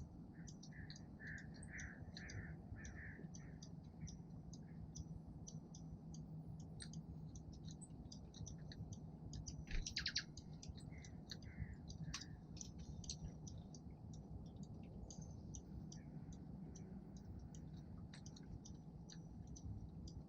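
Small songbirds at a feeder giving many short, high chip notes throughout, with a few softer, lower warbled notes near the start and again about halfway, where a brief louder burst stands out. A low steady hum lies underneath.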